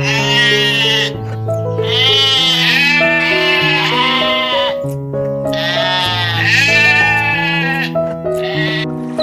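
Sheep bleating several times in a row, each bleat a wavering call, over background music of slow held notes.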